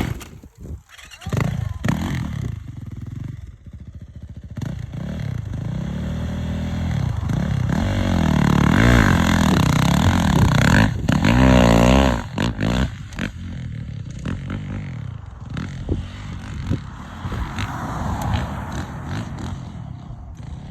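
Dirt bike engine running and being revved, its pitch rising and falling. It is loudest in the middle with quick throttle blips, then settles lower with some clattering knocks.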